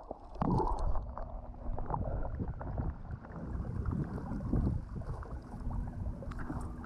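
Underwater ambience of choppy, churned-up sea water: a low rumbling wash with scattered small clicks and crackles.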